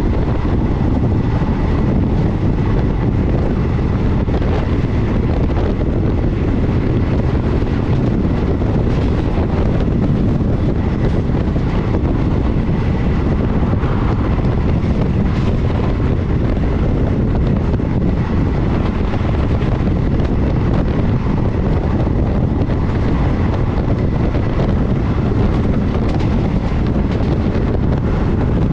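Steady rumble of a passenger train running along the line, heard from on board, with wind buffeting the microphone.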